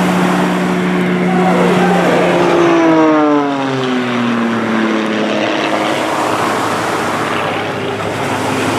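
CAP 231 aerobatic plane's Lycoming six-cylinder engine and propeller flying past: a steady drone that drops in pitch as the plane goes by, about three to five seconds in.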